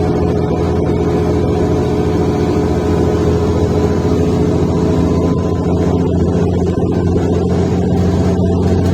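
Mercedes-Benz O530 Citaro Ü bus engine heard from on board while driving, a loud steady drone at an even pitch, coming through a defective, broken exhaust.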